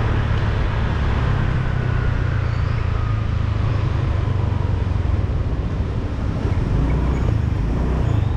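Motorbike engine running steadily at riding speed, with road and wind noise and surrounding traffic.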